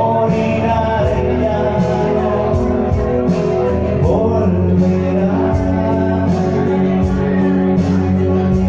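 Rock song played live by a band, with a male voice singing over guitar and steady cymbal strokes.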